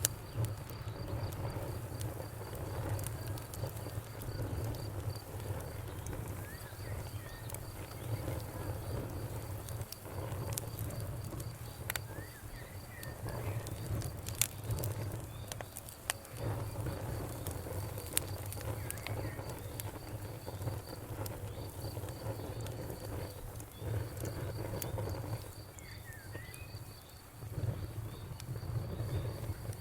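Wood fire burning in a fireplace: a low rumble of flames that swells and dips, with scattered sharp crackles and pops. A steady, high-pitched pulsing trill, like a cricket's, runs underneath.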